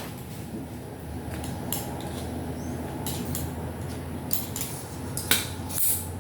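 Small scattered clicks and scrapes of plastic and metal parts being handled and pulled from a Philips stereo being taken apart, the loudest click near the end, over a steady low hum.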